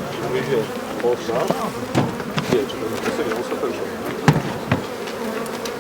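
Honeybees buzzing around the hives: a steady hum with single bees swooping close past and their pitch wavering. A few sharp knocks cut through, the loudest about four seconds in.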